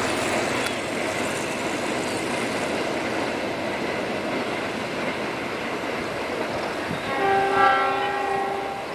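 Container freight train rolling past, a steady rumble of wagons on the rails. About seven seconds in, a horn sounds for about a second and a half.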